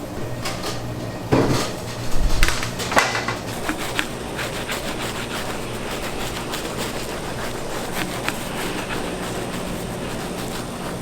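Bakery kitchen clatter: a few loud knocks and clanks of utensils or trays in the first few seconds, then lighter clicks and taps over a steady machine hum.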